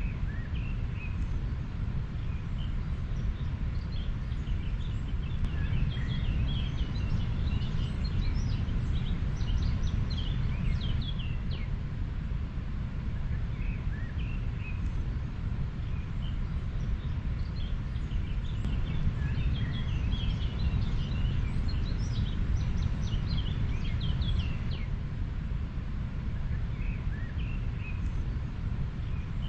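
River water flowing steadily, with many small birds chirping over it in flurries of quick short calls that thicken twice, early and again past the middle.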